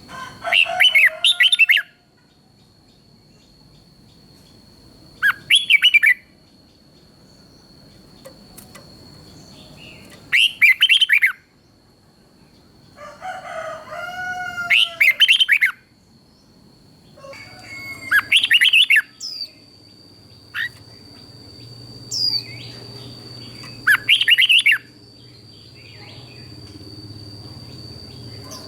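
Red-whiskered bulbul singing: short, loud, warbling phrases about a second long, repeated every four to five seconds, with softer chattering calls between them. A steady high-pitched thin tone runs underneath.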